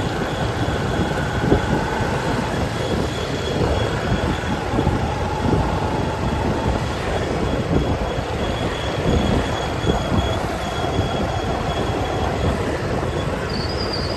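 Steady rumble of motorbike and street traffic heard while riding, with a faint thin high tone held through much of it.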